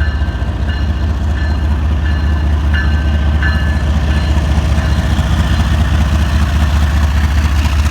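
CSX manifest freight train passing close by: a loud, steady deep rumble, with a short high-pitched tone repeating about every 0.7 s during the first three and a half seconds.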